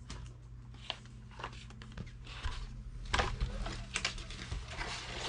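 An RC plane kit's parts and packaging being handled: scattered clicks, taps and rustling, busiest about three seconds in, over a faint steady low hum.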